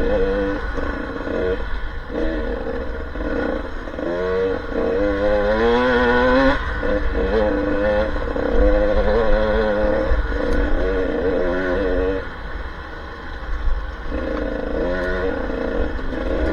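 Enduro trail motorcycle engines revving up and down, the pitch climbing steadily for a couple of seconds around the middle, over a low rumble.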